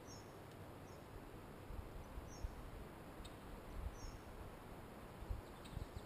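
Quiet marsh ambience with four short, faint, high bird chirps spread over a few seconds, and a few soft low thumps.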